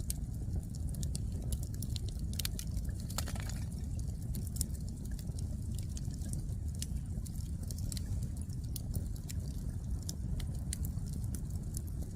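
Wood fire burning, with irregular sharp crackles and pops of the firewood over a steady low rumble.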